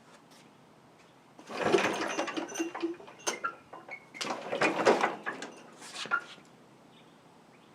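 Snapper rear-engine riding mower's engine being pull-started on its recoil starter: two pulls, each a couple of seconds of rattly cranking with clicks, without the engine catching.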